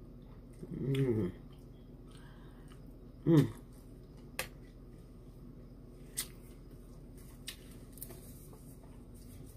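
Mouth smacking while chewing food: a few sharp, separate wet clicks spaced about a second or more apart, with two short vocal sounds about one and three seconds in.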